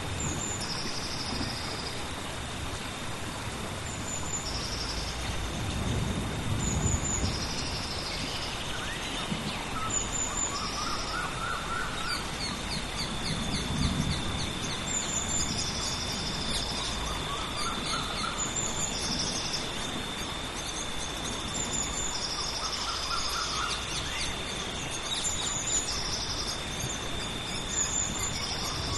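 Rainforest rain storm ambience: steady hiss of rain, with birds giving short high calls over and over, roughly every couple of seconds, and a steady high tone running underneath. Low thunder rumbles twice.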